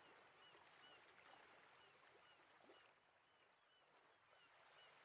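Near silence: a very faint background bed with small short chirps recurring throughout.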